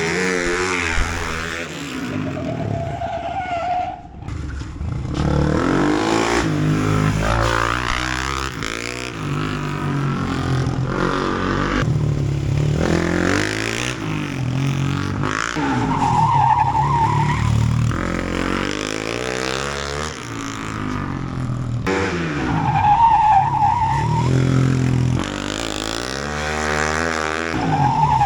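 Flat track race motorcycle engine revving hard and easing off again and again as it accelerates, shifts and brakes for corners, passing by more than once. Short high-pitched squeals cut in a few times.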